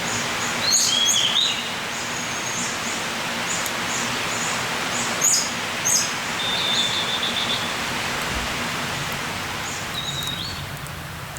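Small birds chirping, with a short trill about two-thirds of the way in, over a steady hiss of outdoor noise.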